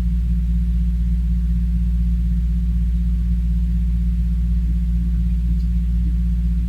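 A loud, steady low hum of fixed pitch that does not change.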